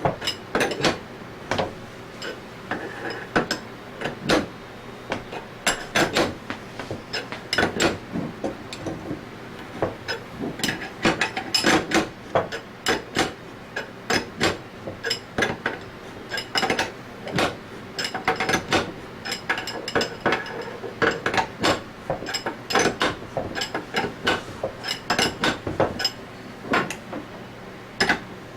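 Irregular metallic clicks, clinks and light taps of hand tools on steel compressor parts as needle bearings are fitted during reassembly, a few per second with short pauses.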